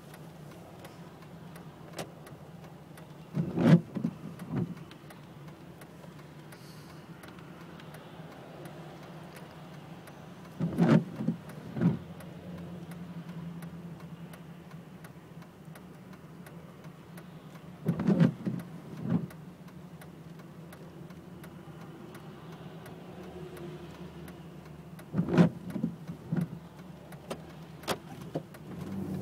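Steady low hum of a car in the rain, with a cluster of two or three loud thumps about every seven seconds, four times.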